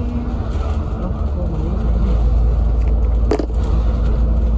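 Double-decker bus running, heard from inside the cabin as a steady low rumble of engine and road noise, with a brief sharp squeak or knock a little over three seconds in.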